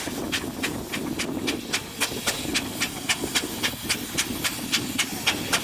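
Steam engine exhaust chuffing in a steady, even beat of about four chuffs a second, with steam hissing.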